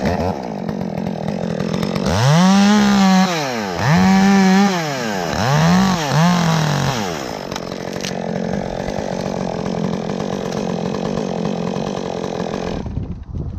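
Two-stroke chainsaw running, revved to full speed four times in quick succession, then running at a steadier lower level before cutting off near the end.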